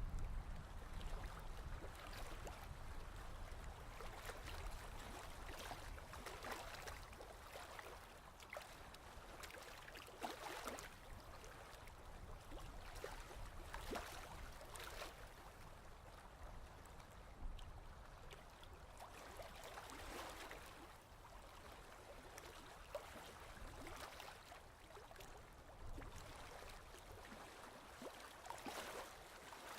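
Ocean waves: soft surf washing in swells every few seconds over a low, steady rumble, with faint fizzing crackles as the water draws back.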